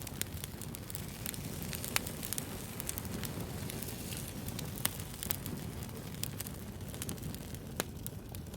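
Wood fire burning with a steady low rush and scattered sharp crackles and pops; the loudest pops come about two, five and eight seconds in.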